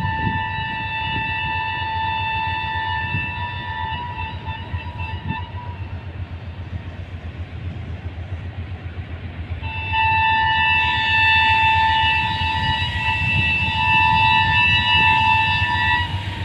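Train horn sounding twice: a long blast that ends about a second in, then a louder blast of about six seconds starting about ten seconds in. Under both runs the steady low rumble and fast throb of a diesel locomotive's engine.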